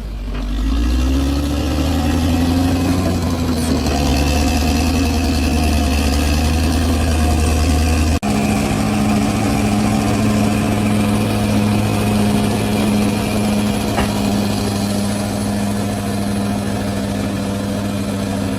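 Large bulldozer's diesel engine running steadily, its pitch rising about a second in. It breaks off abruptly about eight seconds in and runs on at a steady pitch.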